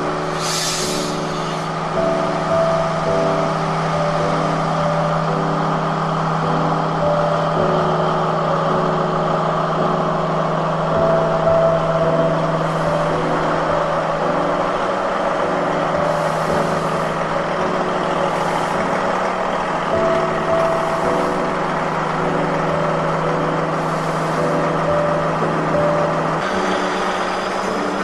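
Diesel multiple-unit passenger train running alongside the platform, its engine humming steadily with a few short hissing bursts; the hum steps up in pitch near the end.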